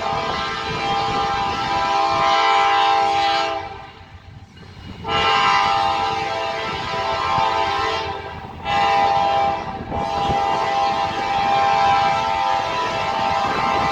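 Diesel freight locomotive's multi-chime air horn sounding a long–long–short–long pattern, the grade-crossing signal, over the rumble of the moving train.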